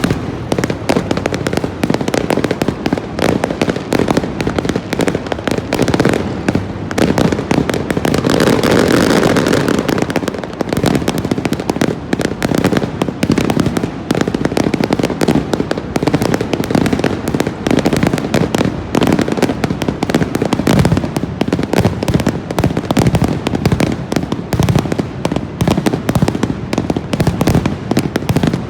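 Aerial fireworks going off in rapid succession: a dense, continuous run of bangs and crackling, densest and loudest about eight to ten seconds in.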